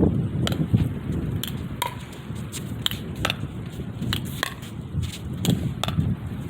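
Pickleball paddles hitting a plastic pickleball: a dozen or so sharp pocks at an uneven pace during dinking rallies, over wind rumble on the microphone.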